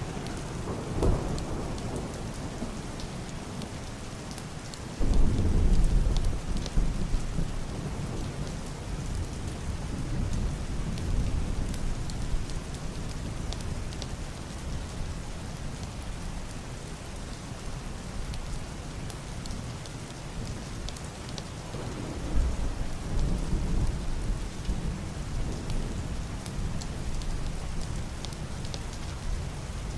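Heavy rain beating steadily on a wooden roof and window glass, with thunder rolling low and muffled: a faint rumble about a second in, a sudden louder peal about five seconds in that rumbles on for several seconds, and another roll a little after twenty seconds.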